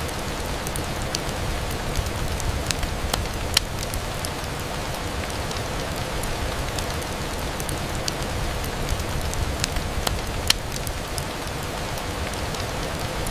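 Steady rain on a window, with scattered sharp ticks and pops over it. The two loudest come about a third of the way in and again near the end.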